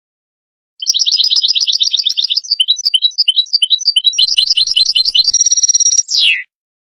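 European goldfinch singing. It opens with a fast run of repeated twittering notes, moves into varied chirps, then a short buzzy held note, and ends on a downward slurred note. The song starts about a second in and stops abruptly about a second before the end.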